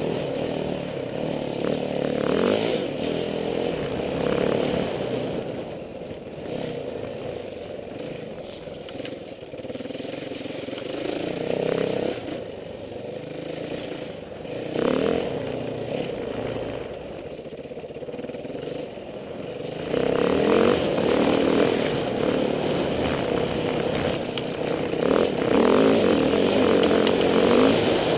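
Yamaha WR450F trail bike's single-cylinder four-stroke engine under way, the revs rising and falling with repeated bursts of throttle. It runs louder for the last third or so.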